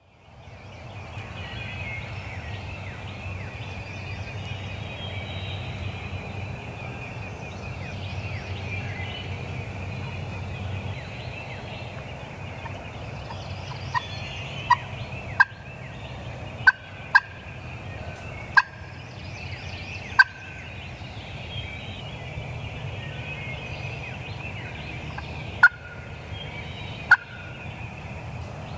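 Wild turkeys gobbling in the woods at dawn, with a chorus of songbirds singing throughout. In the second half, about nine short, sharp calls stand out as the loudest sounds.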